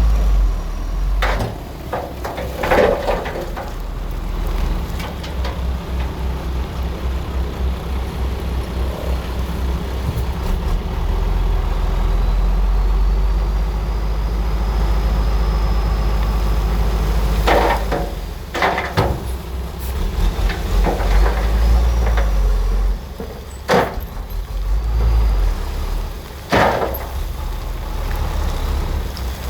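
Bulldozer's diesel engine running under load with a steady low rumble, broken by several sharp metallic clanks, loudest in two clusters past the middle.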